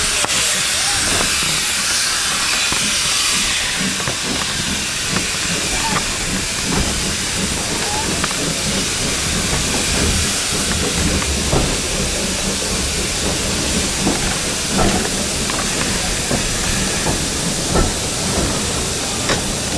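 Heritage steam train pulling away: steam hissing, most strongly at first, over the low rumble of the guard's van on the rails. Knocks and clanks from the wheels and couplings grow more frequent as it gathers pace.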